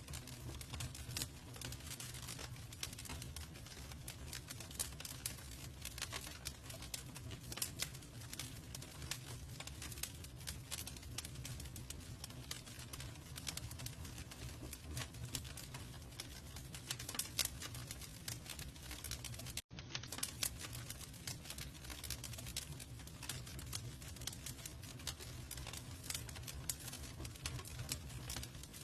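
Campfire crackling: dense, irregular snaps and pops over a low steady rumble. The sound cuts out for a split second about two-thirds of the way through.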